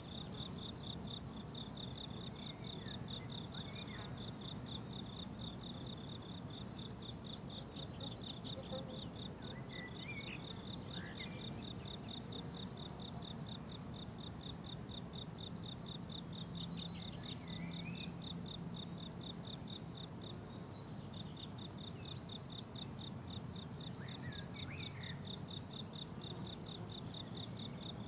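Crickets chirping on a meadow: a continuous, rapidly pulsed high-pitched trill that keeps going without a break.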